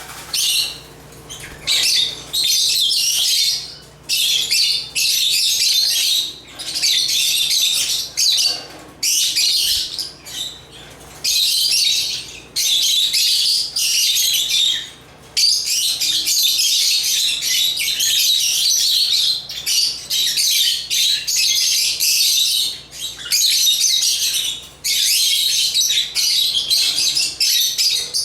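A group of African lovebirds chattering: dense, high-pitched chirping in bursts of one to a few seconds with short breaks between, running unbroken for several seconds in the middle.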